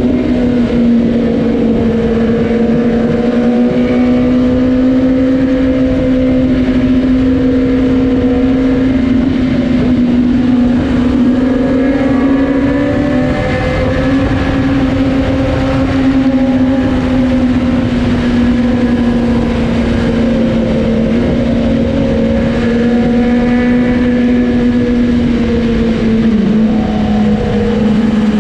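Superbike engine running at a steady highway cruise, its note holding nearly constant with slight rises and dips, over heavy wind and road noise.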